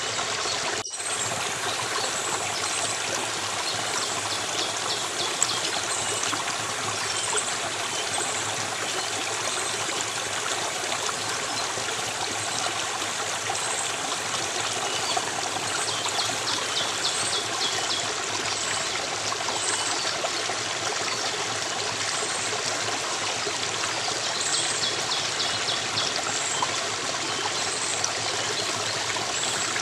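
A stream running steadily with a trickling, splashing rush, with faint high chirps now and then. The sound drops out for a moment just under a second in.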